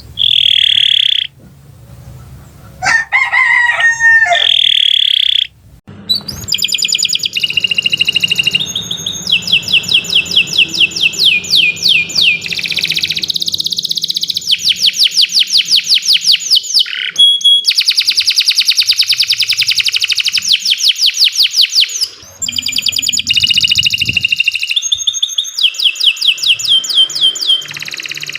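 Domestic canary singing a long, loud song made of rapid trills, each phrase a fast run of evenly repeated notes, with short breaks between phrases. About three seconds in there is a lower, coarser call lasting about a second and a half.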